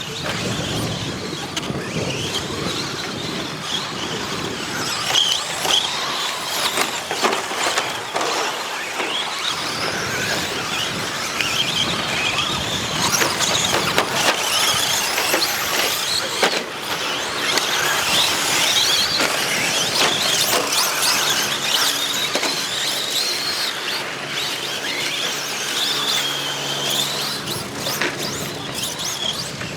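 Several 1/10-scale 2WD electric RC short course trucks racing on dirt, their motors whining and constantly rising and falling in pitch as they accelerate and brake. A steady low hum joins in the background during the second half.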